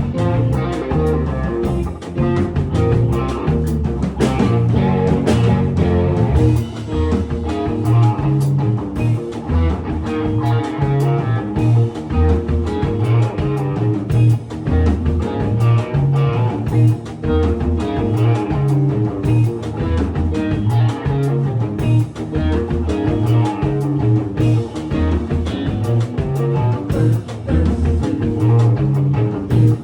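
Psychedelic rock music led by a baritone Danelectro electric guitar, with strong low notes and a drum beat throughout.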